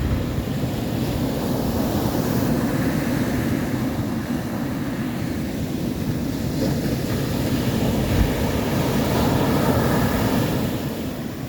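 Steady, deep rushing noise of storm wind and surf, heavy in the low end, as from wind buffeting the microphone over breaking waves.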